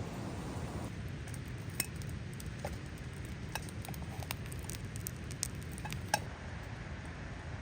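Campfire of wet branches burning, with scattered sharp pops and crackles over a steady hiss.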